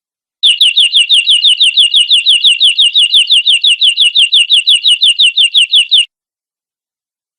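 Canary singing a long trill: one clear down-slurred whistle repeated steadily about six times a second for some five and a half seconds, starting about half a second in and cutting off abruptly.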